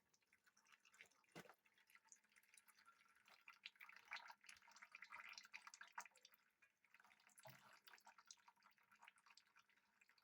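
Faint, irregular dripping of leftover transmission fluid running out of a TH400 automatic transmission stood on its tail.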